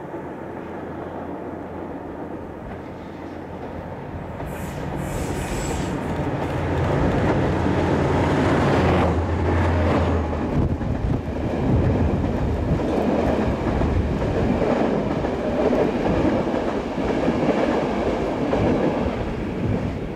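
Intercity train hauled by an ADtranz DE2000 diesel-electric locomotive passing: a steady low diesel drone grows louder over the first several seconds. After about nine seconds the drone gives way to the louder rumble and clatter of the coaches' wheels on the rails, with a brief high squeal about five seconds in.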